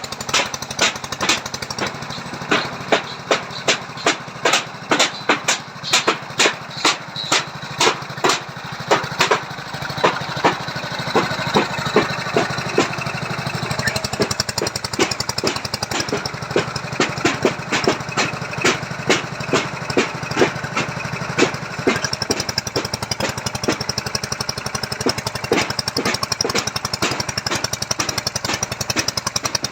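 Engine-driven foundation-boring machine running, with sharp knocks repeating about twice a second over its steady engine noise; after about twenty seconds the knocks give way to a fast, dense rattle.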